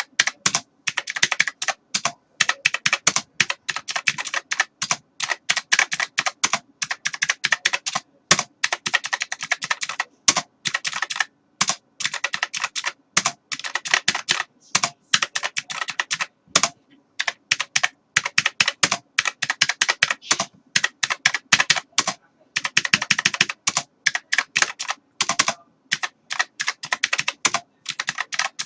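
Computer keyboard being typed on fast and continuously, rapid key clicks in quick runs broken by short pauses.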